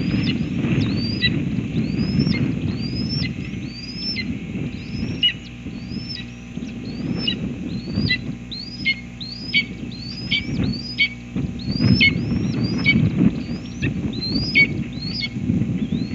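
Red-tailed hawk nestlings chirping: a long run of short, high calls, each sliding up and then dropping, about one or two a second. A low, uneven rumble of noise sits underneath.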